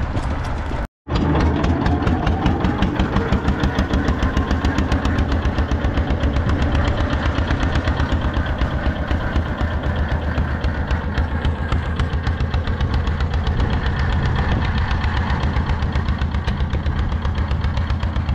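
An engine running steadily with an even, rapid pulse, strongest in the low range; the sound drops out briefly about a second in, then carries on.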